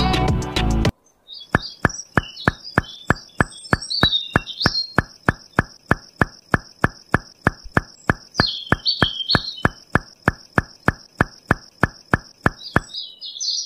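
Background music that stops about a second in, then a rapid, perfectly even ticking of about four clicks a second. Under it run a steady high insect-like drone and scattered bird chirps, and all of it stops shortly before the end.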